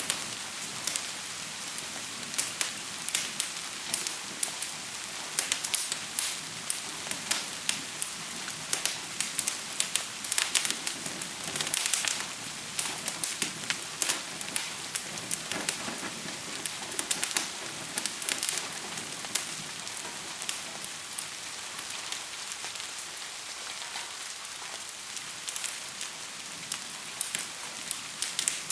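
Steady hiss of gentle rain mixed with the frequent sharp crackles and pops of a fire, the crackling thickest around the middle.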